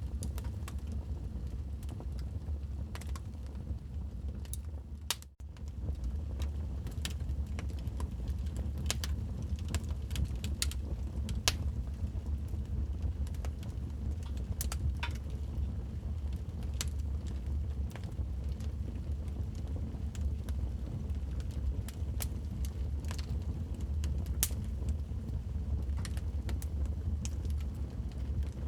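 Wood fire burning in a fireplace: irregular sharp crackles and pops over a steady low rumble. The sound dips out briefly about five seconds in.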